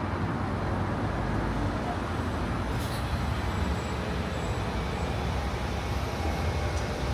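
Steady rumble and road noise of a running vehicle, with a few faint ticks.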